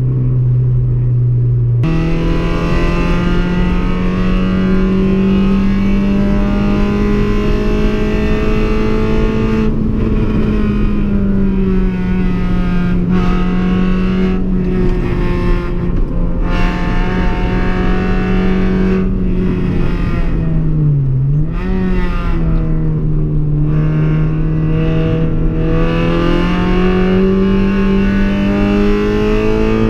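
Car engine running at steady high revs under load on a race track. The pitch jumps up shortly after the start, dips briefly about two-thirds of the way through as the revs drop and pick up again, then climbs near the end.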